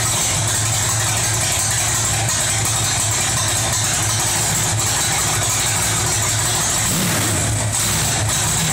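1967 Ford Mustang engine running steadily, its exhaust note even throughout.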